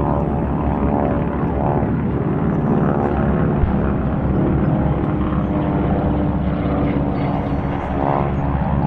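Propeller-driven piston aircraft flying by, their engines running with a steady drone.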